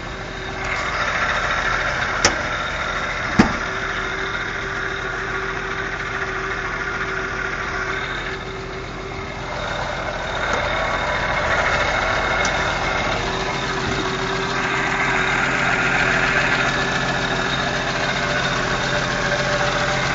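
AMC 258 inline-six engine idling steadily, with two sharp clicks a few seconds in.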